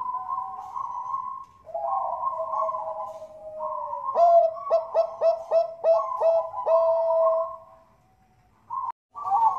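Perkutut bangkok (Thai-bred zebra doves) cooing, more than one call overlapping. About four seconds in comes a run of about seven short clipped notes, then a brief near-silent gap before the cooing picks up again at the end.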